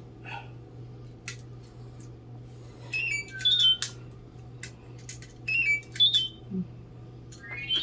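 DigiBirds electronic toy birds chirping: short electronic chirps and whistles in two clusters about two and a half seconds apart, then a rising whistle near the end, with scattered clicks and a steady low hum.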